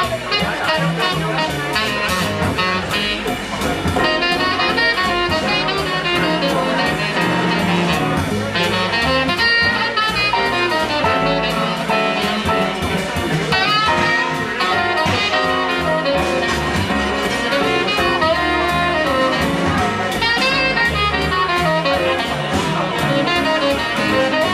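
Live small-group jazz: horn lines over a rhythm section of piano, acoustic bass and drums, with a steady cymbal pattern running underneath.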